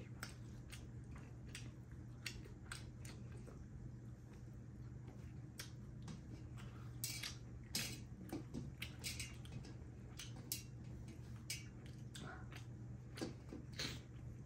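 Close-miked eating sounds of people chewing rice and fish by hand: scattered wet chewing and lip-smacking clicks, irregular and brief, over a steady low hum.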